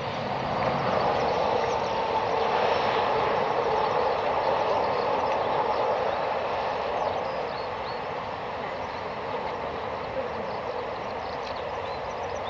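Boeing 737-800's CFM56 jet engines making a steady rush that eases off after about seven seconds.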